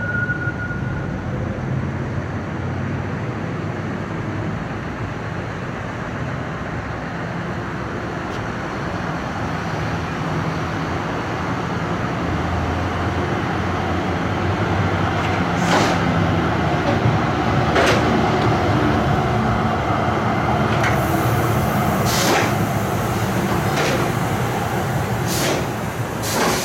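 A tram running on the track, a steady rumbling noise that grows louder from about halfway through, with a steady hum joining in and a run of sharp clicks in the second half.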